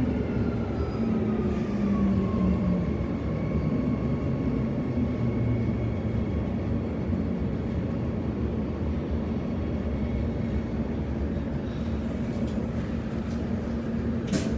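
Bombardier B-series electric multiple unit slowing into a station, heard from inside the carriage: the traction motor whine falls in pitch over the first few seconds above a steady rumble and hum. A short knock comes near the end.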